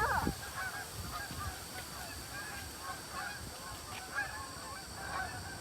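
A flock of birds calling, many short calls overlapping, with a louder call right at the start.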